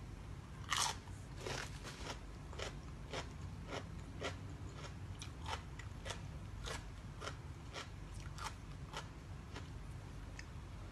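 A person biting and chewing crunchy food close to the microphone: one loud crunch about a second in, then about two sharp crunches a second.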